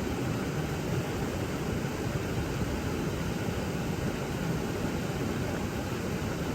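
Steady rush of fast-flowing creek water, a constant deep hiss without breaks.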